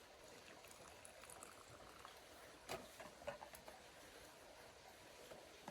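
Near silence: faint bubbling of hot water for ramen, with a few light clicks around the middle.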